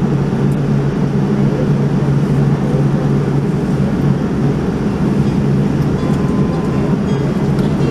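Steady low droning cabin noise inside a Boeing 787-9 airliner just after landing, with a constant hum in the low range.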